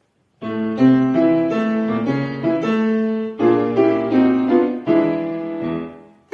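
Piano playing the opening bars of an accompaniment in a series of chords, starting about half a second in and dying away near the end.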